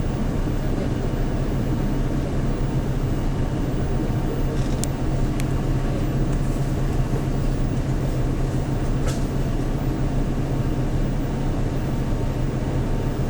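Hyundai New Super Aero City CNG city bus engine running steadily, heard from inside the bus, as a continuous low hum. A few faint brief clicks come through about halfway.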